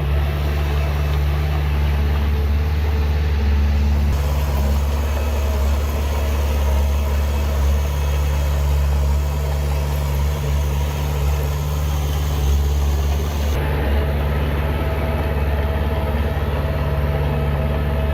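Heavy diesel engine of earthmoving machinery running steadily, a constant low drone.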